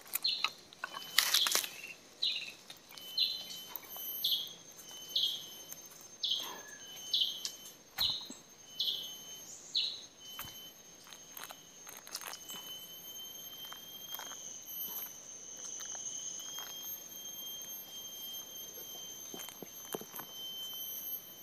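A forest bird calling repeatedly: about ten short high notes, each sliding downward, roughly one a second. From about halfway on a steady high-pitched insect drone holds, with a few light knocks of handling.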